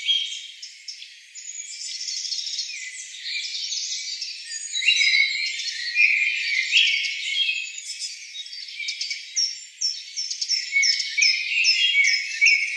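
Many small birds chirping together: a dense run of short, overlapping high-pitched chirps, with quick falling notes repeating rapidly near the end.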